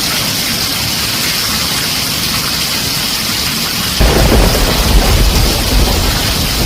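Heavy rain falling on a tin roof as a steady hiss, with a deep rumble of thunder coming in suddenly about four seconds in and going on to the end.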